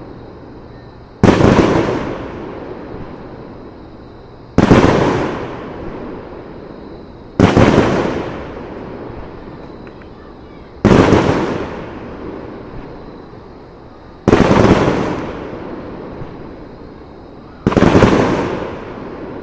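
Aerial firework shells bursting: six loud booms about three seconds apart, each trailing off in a long rolling echo.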